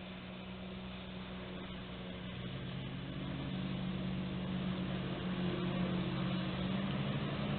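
Motorboat engine running steadily and growing louder as the boat approaches.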